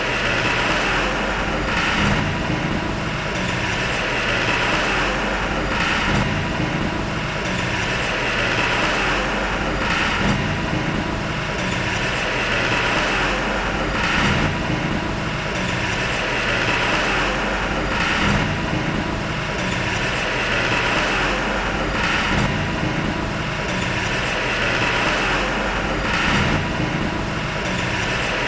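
Diesel engine of heavy earthmoving machinery running steadily, its sound swelling and easing in a regular cycle about every four seconds.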